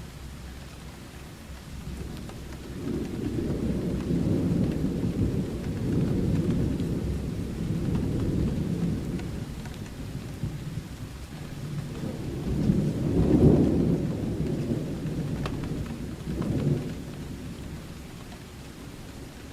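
Thunder rumbling over steady rain: long low rolls that build a few seconds in, are loudest about two-thirds of the way through, swell once more briefly, then fade back to the rain.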